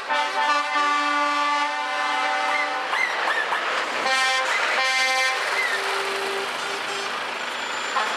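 Truck air horns blasting, several overlapping: one long blast at first, then shorter blasts and a held lower horn tone, over the noise of passing trucks.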